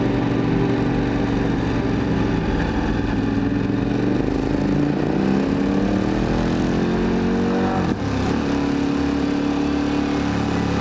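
KTM 1290 Super Adventure's V-twin engine with an Akrapovic exhaust, heard from the rider's seat. It runs steadily, climbs in revs from about four seconds in, then drops abruptly about eight seconds in and runs steady again.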